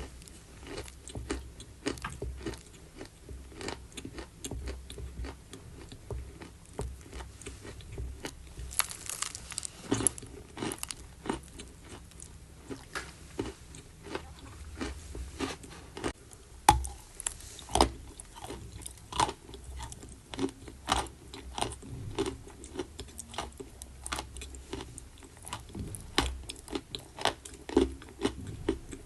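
Close-up crunching of chalk being bitten off and chewed: a run of crisp snaps and grinding crunches, with a flurry of louder bites about a third of the way in.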